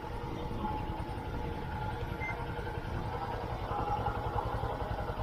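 Wind rumbling against the microphone, with the faint steady whine of a C-Fly Faith 2 quadcopter drone's motors hovering above.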